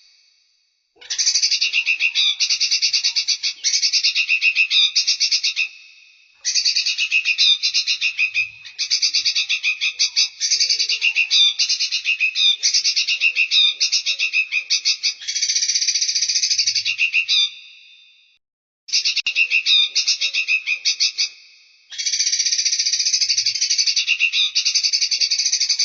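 Small songbird singing rapid, buzzy, high-pitched trilled phrases in long bursts of a few seconds each, separated by brief pauses.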